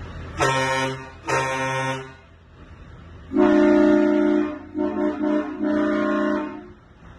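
Truck air horn: two short low blasts, then after a pause three longer blasts of a higher horn sounding several notes together.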